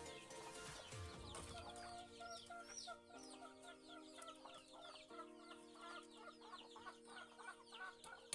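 Chickens calling, a faint stream of many short, quick, falling chirps, over quiet background music with held chords that change twice.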